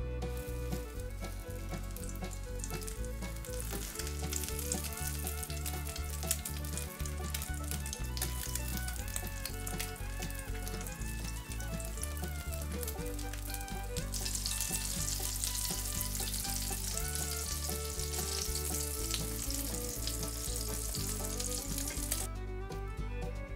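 Chicken breast strips coated in egg white sizzling as they fry in hot oil in a pan, the sizzle louder in the second half and cutting off suddenly near the end. Background music plays underneath.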